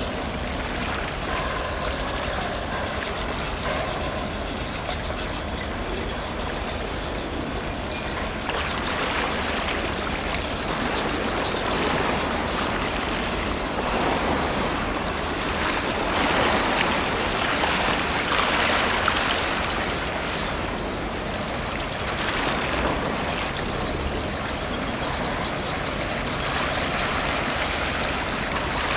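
Deep, steady engine rumble of a passing container ship, with the rushing of its wake water swelling and easing in waves.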